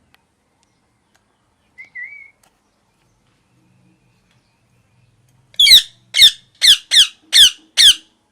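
Parrot calling: a brief soft warble about two seconds in, then six loud, sharp squawks in quick succession near the end, about half a second apart, each a falling note.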